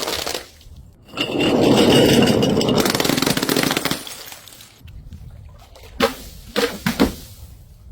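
Glass containers filled with coloured water being smashed. A sharp crack at the start, then a long shattering crash with spilling water about a second in that lasts about two seconds, and a few sharp cracks around six to seven seconds in.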